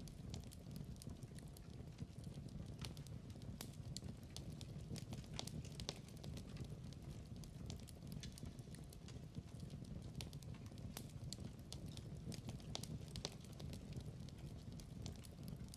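Fireplace fire crackling: irregular sharp pops and snaps of burning wood over a steady low rumble of the flames.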